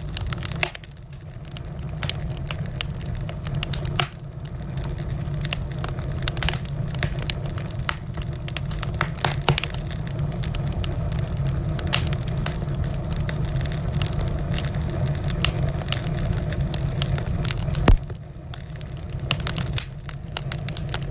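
Wood fire in a fireplace crackling, with frequent sharp irregular pops over a steady low rumble; one loud pop about eighteen seconds in.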